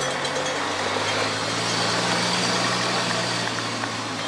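A car engine running steadily at low speed, a low drone under a hiss of wind and road noise.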